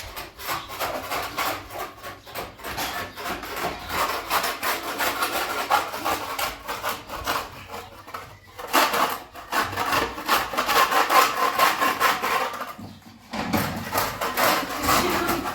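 Rapid, rhythmic rasping strokes, like something being sawn, filed or scraped, pausing briefly twice.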